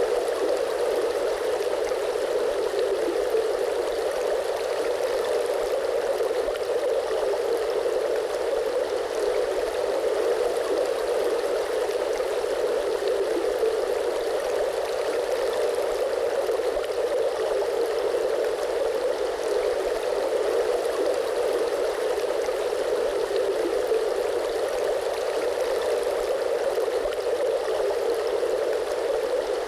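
Steady flowing water, an unbroken stream-like rush with no splashes or changes in level.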